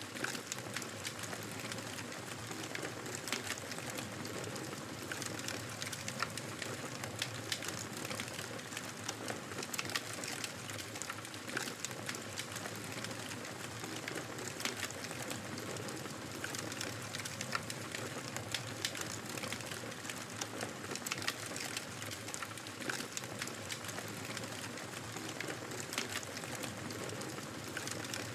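Wood fire crackling in a fireplace: frequent sharp pops and snaps at irregular intervals over a steady hiss.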